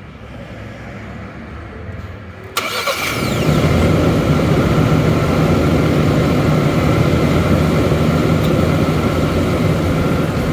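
2020 Ford Ranger's 2.3-litre turbocharged four-cylinder engine being started: it catches with a sudden jump in loudness about two and a half seconds in, then settles into a steady idle.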